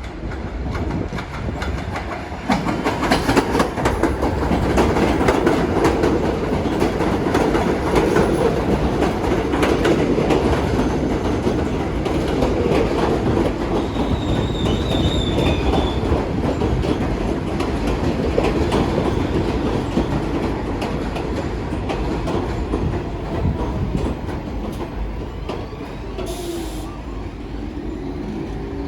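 New York City Subway train running past, wheels clattering over the rail joints, with a brief high wheel squeal about halfway through. The noise builds a couple of seconds in and slowly eases toward the end.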